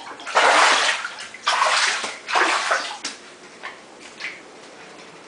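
Floodwater sloshing and splashing as legs wade through it: three loud surges about a second apart, then a few smaller splashes.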